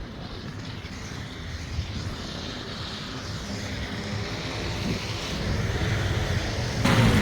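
Low rumble of a vehicle, growing steadily louder, with a brief sharper noise near the end.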